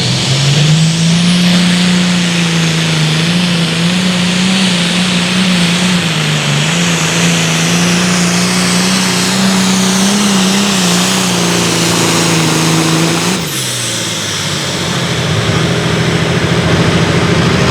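Super Farm pulling tractor's turbocharged diesel engine running flat out during a pull. It climbs to a high, held note with small wavers. About thirteen seconds in, the throttle is cut and the pitch falls away quickly, before engine noise builds again near the end.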